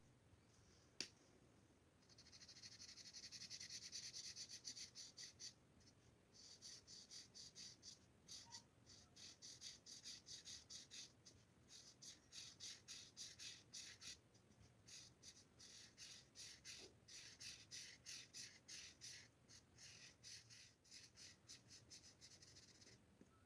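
Faint felt-tip marker colouring on paper: rapid back-and-forth scratchy strokes, several a second, in runs with short pauses, after a single click about a second in.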